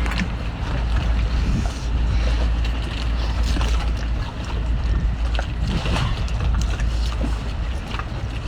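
Steady low rumble of wind buffeting the microphone by the sea, with a few light clicks.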